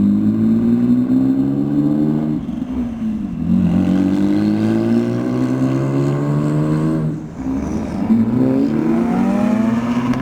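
Modified Porsche 996 Turbo's twin-turbo flat-six accelerating hard, its pitch climbing through the revs. It breaks off for an upshift about seven seconds in, then climbs again.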